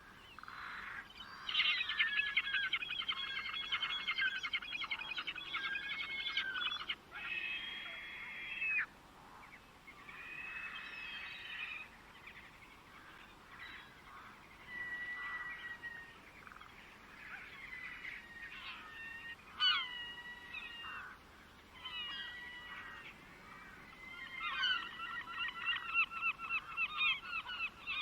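Birds calling: a long run of rapid, repeated calls at the start, then shorter separate calls, and another rapid run near the end.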